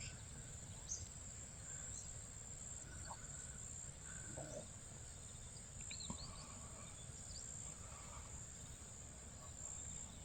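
Quiet field ambience: a steady high-pitched insect drone, with a few faint bird chirps, a cluster of them about six seconds in, over a low rumble of wind.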